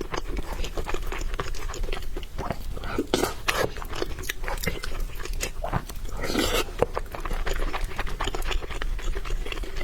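Close-miked eating: wet chewing and mouth clicks going on throughout, with a couple of longer, breathier sounds about a third and two thirds of the way through.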